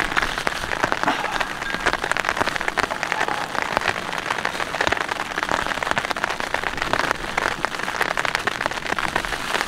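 Steady rain falling, a dense hiss of many small drop hits that holds even throughout.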